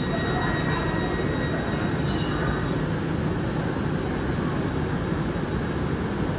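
Steady rumbling noise of a train running, with a faint high whine over it.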